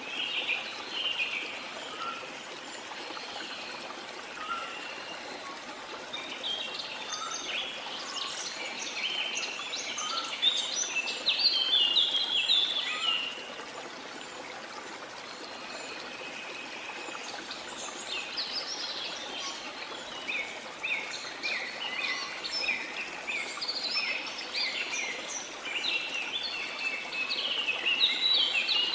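Tropical rainforest birds chirping and singing in many quick, overlapping calls over the steady rush of a waterfall. The birdsong thickens into two busy spells, one about a quarter of the way in and another through the last third.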